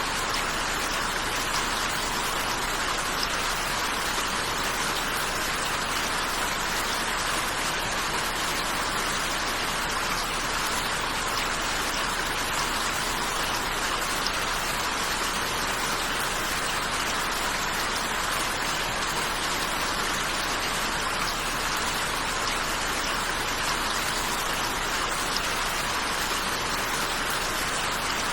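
Steady rain falling, a continuous even hiss of drops with no breaks or changes in intensity.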